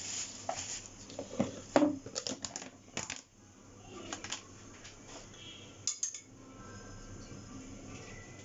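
A quick string of light clinks and knocks of small hard objects over the first six seconds, then only a faint steady background.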